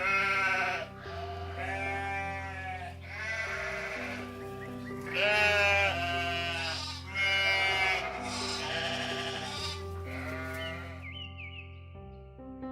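Sheep bleating, about seven wavering bleats roughly one every one and a half seconds, over steady background music.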